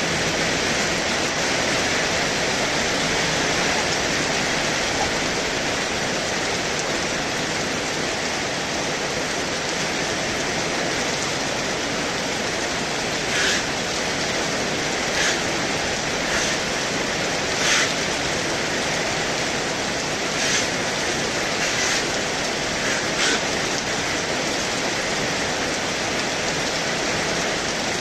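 Heavy rain falling steadily. A handful of louder, sharper drop hits land close by in the second half.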